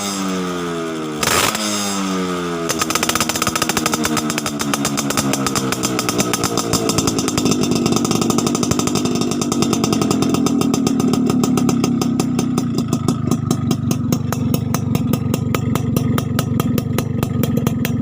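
Yamaha RX-King two-stroke motorcycle engine running through an Alfa-type exhaust silencer insert. From about three seconds in it fires steadily, rises in pitch around the middle, then settles back to an even idle.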